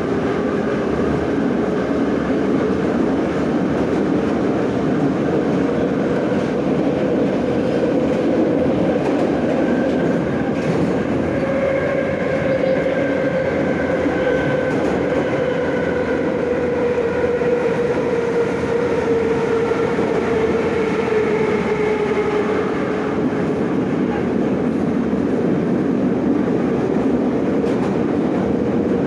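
Moscow Metro 81-717 'Nomernoy' train running between stations: a steady rumble of wheels on rail with a droning whine from the traction motors. The whine drifts slightly lower in pitch through the middle.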